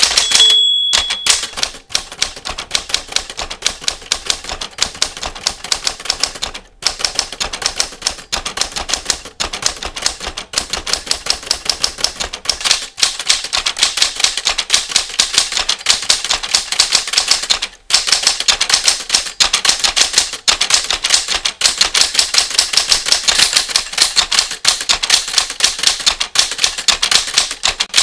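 Typewriter keys striking in fast, continuous typing, with only a few brief pauses. Near the start there is a single bell-like ding, the typewriter's end-of-line bell.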